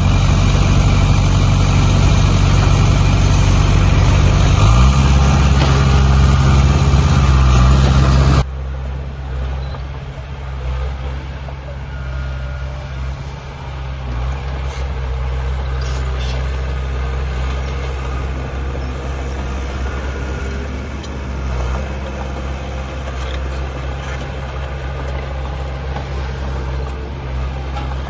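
Heavy diesel engine of earthmoving machinery running, its pitch stepping up about five seconds in. A little past eight seconds the sound drops suddenly to a quieter, steady engine note.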